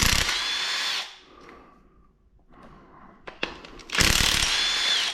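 Two bursts of a small power tool, such as a cordless drill or driver, running. The first comes at the start and the second about four seconds in; each lasts about a second, with a steady whine that dips in pitch as the tool stops. A few light clicks fall between the bursts.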